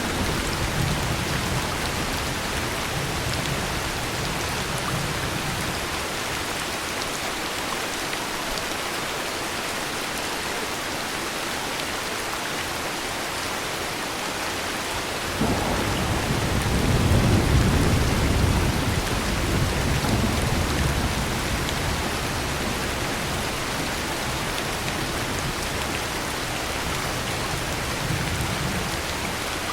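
Heavy rain falling steadily. About halfway through, a sudden clap of thunder rolls into a deep rumble that fades over several seconds, with fainter thunder rumbling near the start and again near the end.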